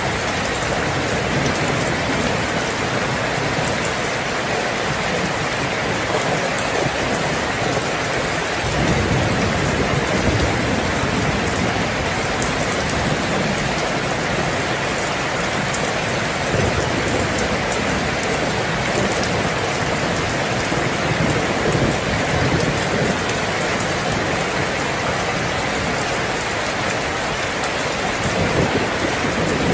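Heavy rain falling steadily, with low rumbles of thunder swelling up several times, the strongest about nine seconds in.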